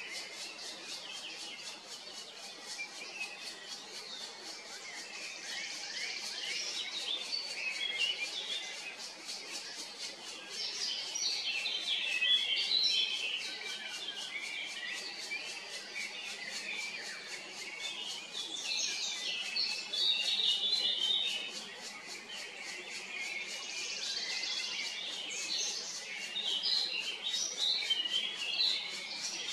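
Birds chirping and singing in bouts of quick high chirps, with short lulls between bouts.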